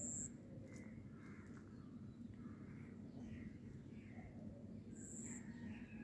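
Faint bird calls, short and scattered, over a low steady hum, with a brief high peep at the start and another about five seconds in.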